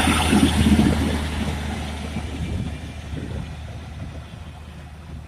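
Class 153 single-car diesel multiple unit pulling out of the station, its underfloor diesel engine a steady low drone that fades as the train moves away.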